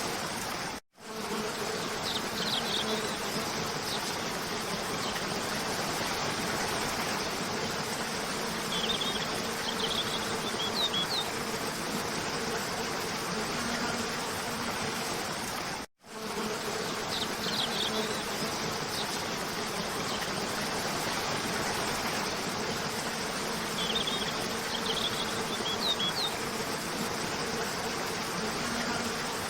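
Steady rush of a cascading waterfall with an insect-like buzzing drone, and small clusters of high bird chirps twice in each pass. The recording is a loop that cuts out briefly and restarts about a second in and again about halfway.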